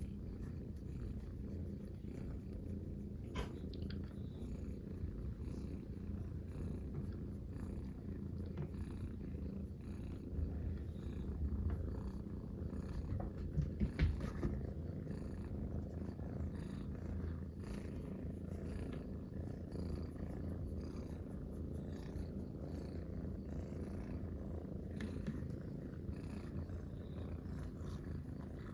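Munchkin cats purring together, a steady low rumbling purr close to the microphone, with a few faint rustles and a brief louder knock about halfway through.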